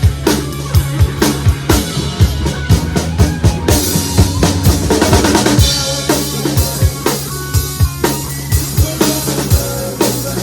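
Live rock band playing, with the drum kit loudest: regular kick and snare strikes over the rest of the band.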